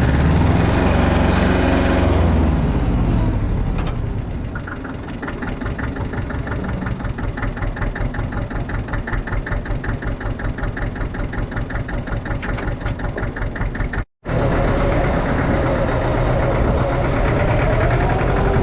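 Allis-Chalmers 5020 compact tractor's diesel engine running. It eases back about four seconds in to a steady, even chugging, breaks off for a moment near the end, then carries on.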